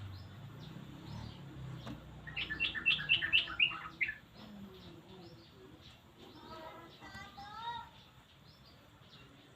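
Yellow-vented bulbul (trucukan) singing: a loud, quick run of bubbly chirps lasting about two seconds, then a softer, lower warbled phrase a few seconds later. Faint short high chirps repeat throughout.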